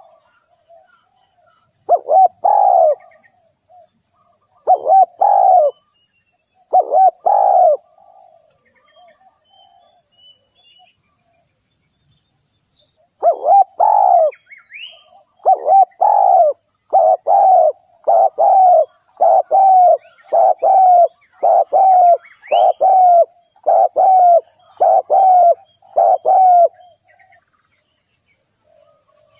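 Spotted dove cooing: three separate coos in the first several seconds, then after a pause a long, fast run of coos about one a second.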